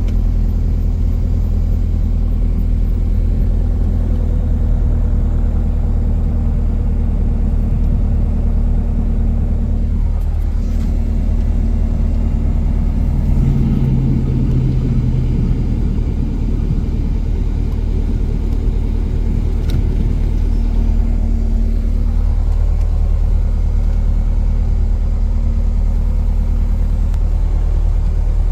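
Cessna 177 Cardinal's piston engine and propeller droning steadily.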